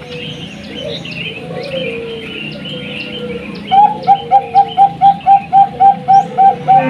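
Zebra dove (Bangkok-strain perkutut) singing. A little past halfway it breaks into a loud, rapid run of short, even coo notes, about four a second. High chirping of small birds runs underneath throughout.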